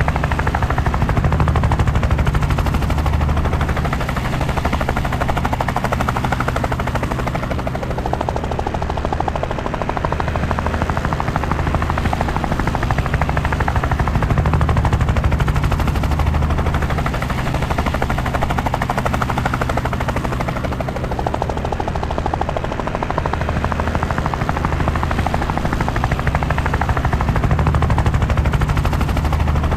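Helicopter rotor and engine running steadily, a fast chopping of the blades over a low drone, swelling and easing slowly every several seconds.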